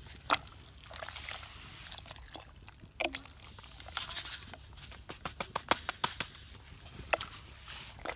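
Beef stew sloshing in a pot over a campfire as roux is stirred in, with irregular sharp crackles and pops scattered throughout.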